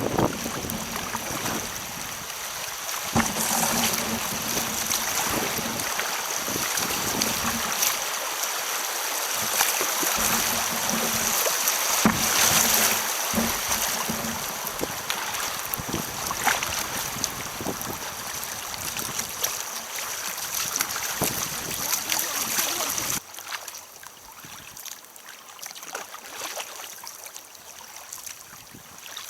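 Rushing white water of a river rapid, a steady hiss with scattered splashes as kayaks run through it. It drops suddenly to a quieter wash about 23 seconds in.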